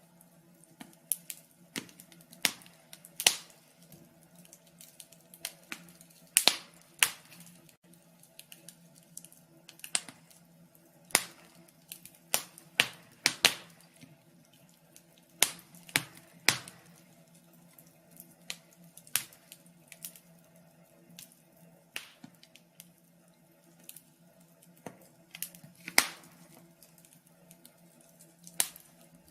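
Wood fire crackling in a fireplace: irregular sharp pops and snaps, some loud and some faint, roughly one to three a second, over a faint steady low hum.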